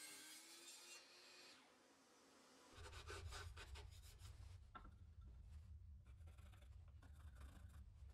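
Faint scratching, rubbing and light clicks of hand work, over a steady low hum that starts a little under three seconds in.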